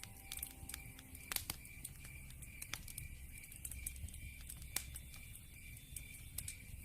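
Wood fire burning in a fireplace: logs crackling with irregular sharp pops, one louder pop about a second and a half in, over a low rumble. A steady, evenly pulsing high chirp runs underneath.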